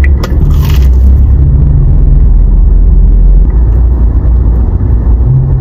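A crunchy bite into a fried, sugar-coated Korean corn dog in the first second, over a loud, steady low rumble that goes on throughout.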